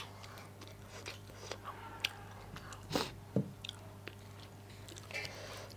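Close-miked chewing with wet mouth clicks and smacks of a person eating a rice, daal and meat meal, with a louder pair of bites about three seconds in. A steady low electrical hum runs underneath.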